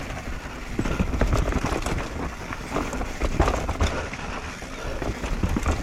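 Mountain bike riding down a dirt trail at speed: tyres rolling over the ground, the bike rattling with many short knocks over rough spots, and wind rumbling on the microphone.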